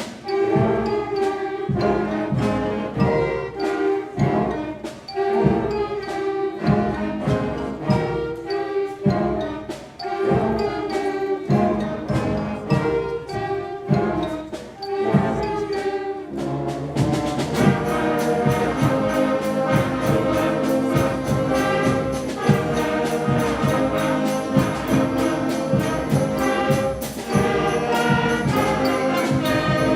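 5th and 6th grade school concert band playing: short, detached notes with drum strikes, then about 17 seconds in the full band moves into held brass chords.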